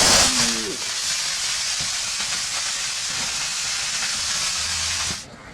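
Lithium-ion battery cell venting in thermal runaway, a loud steady jet of hiss from the burning cell, which cuts off suddenly about five seconds in.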